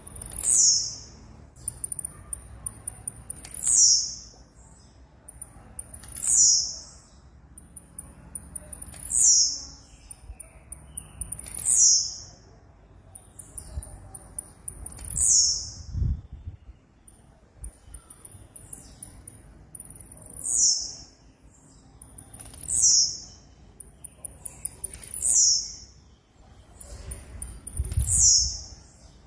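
Blue-black grassquit (tiziu) singing its short buzzy, downward-sliding 'tiziu' phrase, each preceded by a run of rapid high ticks. The phrase repeats regularly about every two and a half to three seconds, around eleven times. There are faint low thumps, the clearest about sixteen seconds in and near the end.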